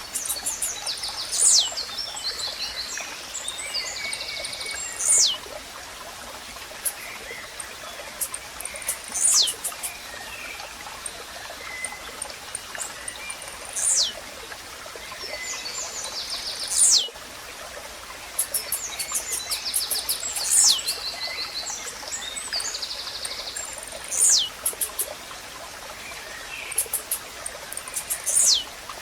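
Blue-black grassquit song, a short, high note that falls sharply, repeated about every four seconds. Other birds chirp and trill between the songs over a steady stream-like background hiss.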